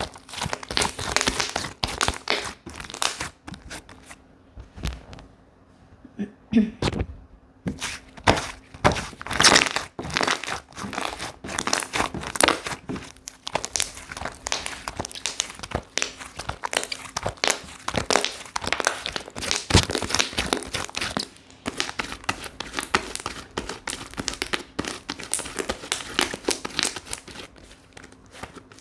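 Slime being squished and pressed by hand, making dense crackling, popping clicks, which thin out briefly a few seconds in and then pick up again.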